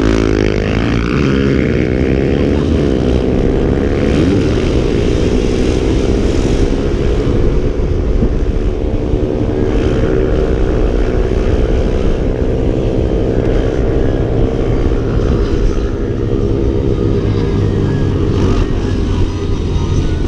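Engine of a moving motor vehicle running under way. Its pitch falls and rises over the first few seconds with changes of throttle, then holds fairly steady, climbing slowly.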